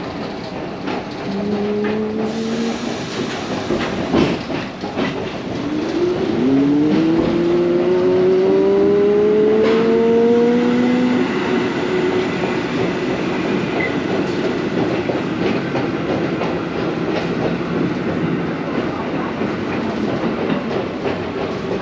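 New York City subway train pulling out of the platform. Its traction motors whine, rising in pitch twice as it accelerates, the second rise longer and louder, over the rumble and clatter of the wheels on the rails. A single sharp knock comes a few seconds in.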